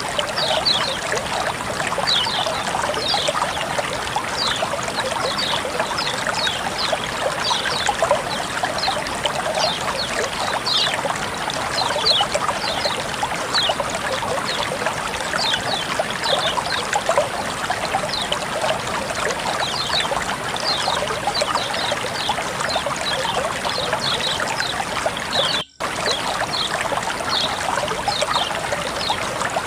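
Water flowing and trickling steadily, with short high plinks about once a second. It cuts out completely for a split second near the end.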